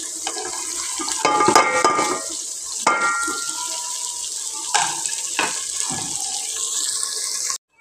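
Onion-tomato masala sizzling in hot oil in a metal cooking pot, with scrapes, knocks and short clattering rings against the pot as ground spices are tipped in from a plate and stirred with a wooden spoon. The sound cuts off suddenly near the end.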